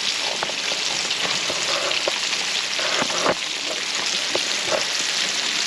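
Coated gar nuggets frying in hot grease: a steady sizzle sprinkled with small pops and crackles, a few louder ones about three seconds in.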